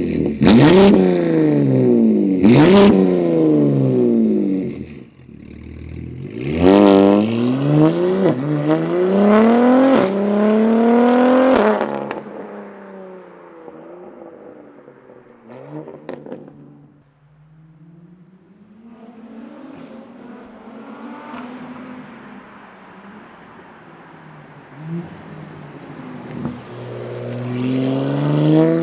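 BMW M3's S58 twin-turbo straight-six exhaust through an equal-length midpipe and catless downpipes, revving: two quick rev blips at the start, then rising pulls with drops in pitch in between. It settles low and quieter for a long stretch before the revs climb again near the end.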